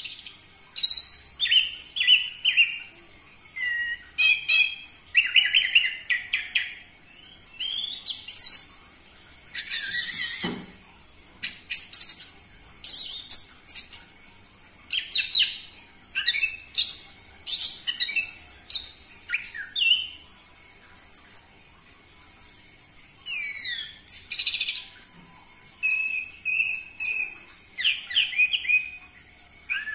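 Orange-headed thrush singing: a steady run of varied, high, shrill whistled and chattering phrases, each about a second long, separated by short pauses.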